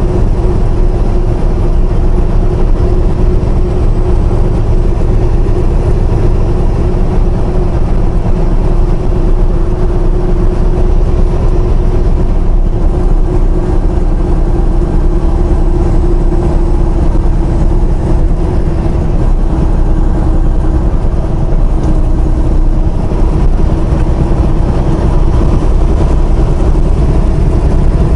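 Steady drone of a semi-truck's engine and road noise heard inside the cab while cruising, with a constant hum and no change in pace.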